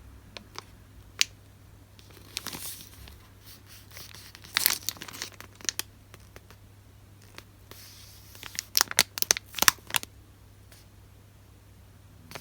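Paper goods and their wrapping being handled: crinkling and rustling in three short bursts, with light taps and clicks between them.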